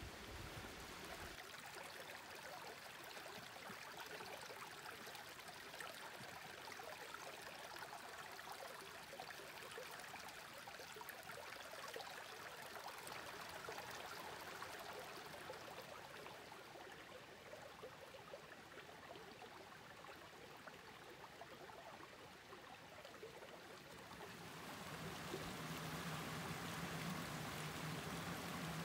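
Mountain stream flowing and trickling over rocks, a steady watery hiss that grows louder near the end, when a low steady hum joins it.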